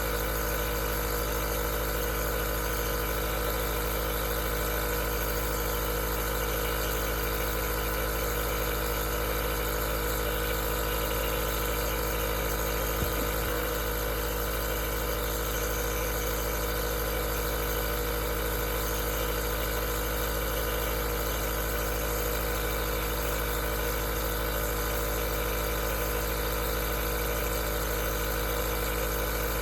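Aerosol nebulizer running steadily: an even motor hum under a constant hiss. A single brief click about halfway through.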